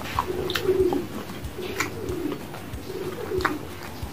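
Close-up chewing of fried snacks (gorengan) with the mouth closed: short crunchy clicks and wet mouth sounds. A low cooing hum recurs about every second and a half.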